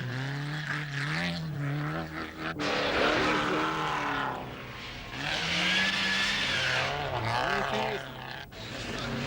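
Rally car engines revving hard through the corners of an icy special stage, the pitch climbing and dropping over and over as the cars pass. The sound breaks off abruptly twice, about two and a half seconds in and again near the end.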